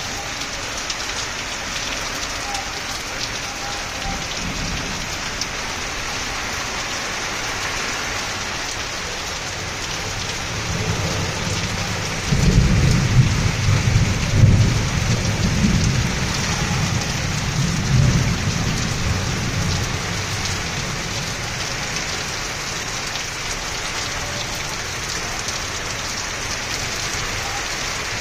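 Heavy rain pouring steadily onto a concrete rooftop and plastic pots and drums, an even hiss. About ten seconds in, a long roll of thunder builds, is loudest for several seconds with a couple of peaks, then dies away.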